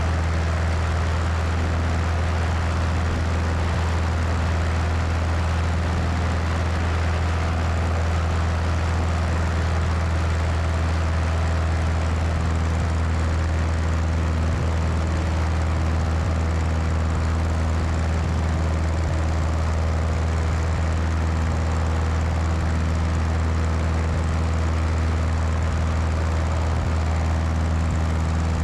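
Cessna 172's propeller engine droning steadily in flight, mixed with steady wind rushing over the wing-mounted microphone.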